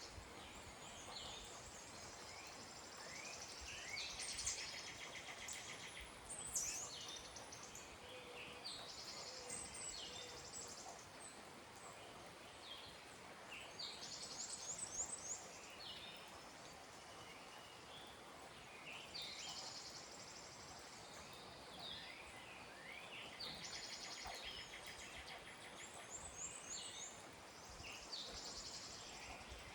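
Several songbirds singing, with repeated buzzy trills and quick rising chirps coming every few seconds, over a faint steady hiss.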